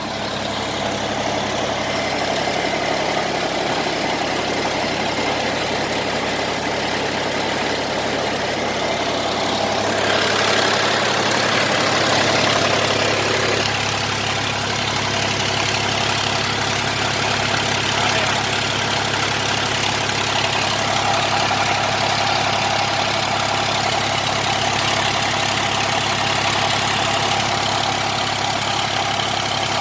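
Tractor-driven generator running steadily with an even engine hum; about ten seconds in the sound grows brighter and a little louder, settling again a few seconds later.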